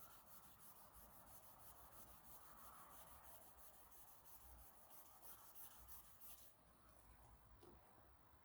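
Faint, quick back-and-forth rasp of 2000-grit wet sandpaper rubbed by hand over a painted motorcycle rear fender, sanding a scratch out of the clear coat. The strokes stop about six and a half seconds in.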